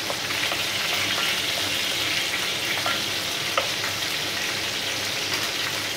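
Steady sizzle of hot fat frying: whole spices in ghee, with chicken drumsticks frying in oil in the pan alongside. A couple of faint knocks come about three seconds in.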